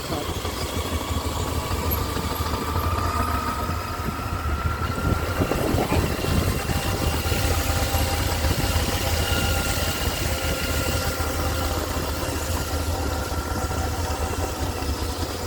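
Motorcycle engine running steadily at low revs, its pitch drifting slowly up and down.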